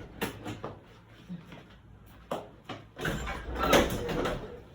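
Several short knocks and clicks, with a louder stretch of rustling, knocking handling noise about three seconds in.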